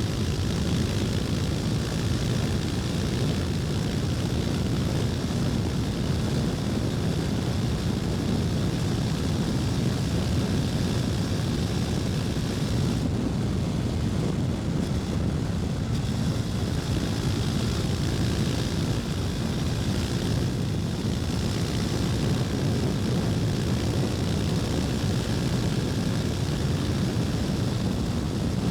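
KTM Duke 250's single-cylinder four-stroke engine running at a steady pace while riding, mixed with wind rush.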